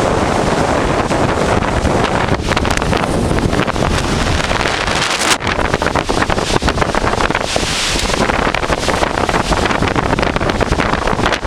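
Storm wind at 65–80 MPH blasting the microphone: loud, continuous buffeting rumble and flutter, with a swell of hiss about eight seconds in.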